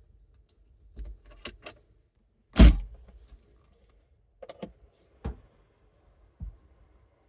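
A series of sharp clicks and knocks, with one much louder thump about two and a half seconds in.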